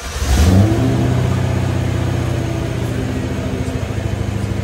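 Car engine revs up once in the first second, then settles into a steady idle with an even, fast throb.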